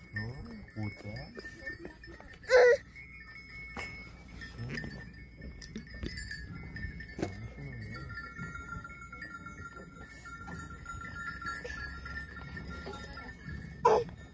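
Farm animals bleating, with bells clinking; two loud short calls, one about two and a half seconds in and one near the end.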